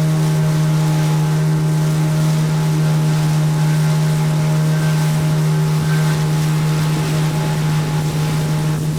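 Boat's outboard motor running at a steady speed, a constant low drone, with water and wind noise around it.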